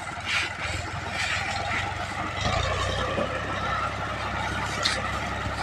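Tractor engine running, growing louder about two and a half seconds in.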